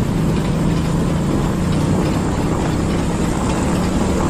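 Motorbike engine running steadily during a ride, under a constant rush of wind noise.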